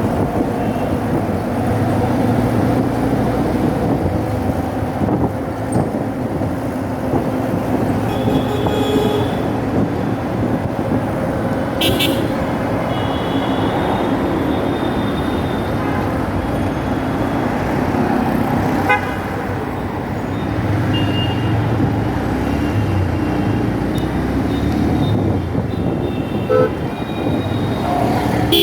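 Road traffic: engines running steadily under a constant rumble, with short high-pitched vehicle horns tooting several times through the stretch.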